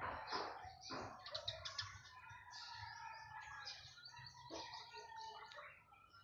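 Small birds chirping, many short high calls overlapping, with a few brief sharp sounds in the first second.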